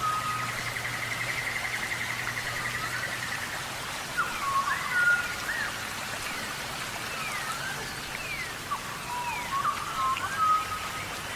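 Steady tropical rainforest rain hissing, with birds calling over it. A rapid trill runs through the first few seconds, then short whistled notes slide up and down.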